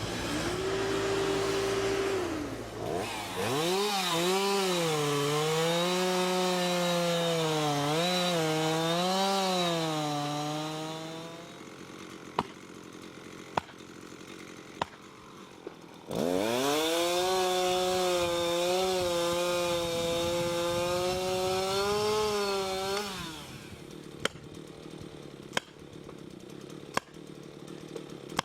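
Chainsaw running at full throttle through two long cuts, its engine note dipping and recovering as it loads up in the wood. Between the cuts the saw drops back, and sharp clicks and snaps are heard.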